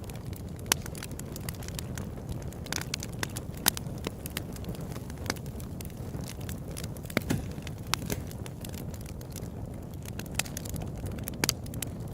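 Open-air campfire crackling: irregular sharp pops and snaps of burning wood over a steady low rumble, with a few louder pops standing out.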